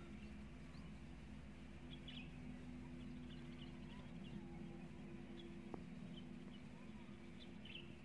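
Faint outdoor ambience: scattered short, high bird chirps over a steady low hum and hiss.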